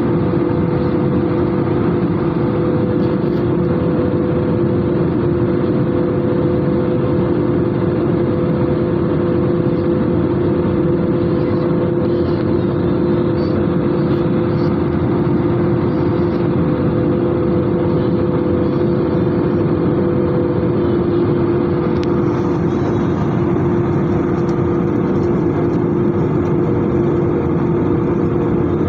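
Airbus A320-216 jet engines and airflow making a loud, steady rushing noise with two steady low hum tones. The pitch stays level, so the engines hold a constant power setting.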